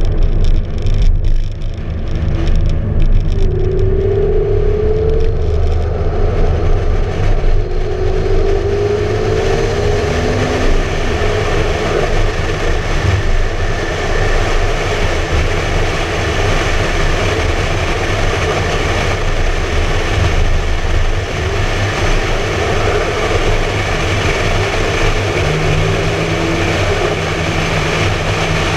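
McLaren MP4-12C Spider's twin-turbo V8 driving at road speed, heard from a camera mounted outside the car, under steady wind and road noise. The engine note rises briefly about four and eight seconds in, and a steady low drone sets in near the end.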